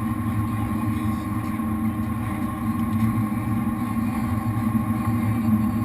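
Jet boat's V8 engines running steadily at low speed, a constant low hum with no change in pitch.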